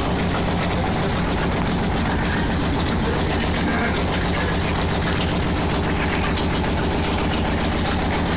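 Electric motor of a washing machine running steadily: a low hum with a fast, even pulse, starting about as the water filling stops.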